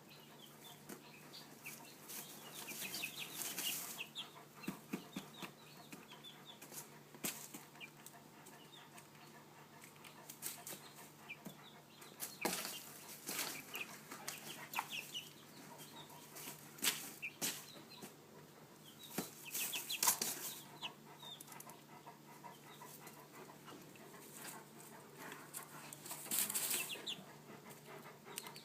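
Chickens clucking and scratching about in fresh hay, with bursts of rustling and short calls at a few points.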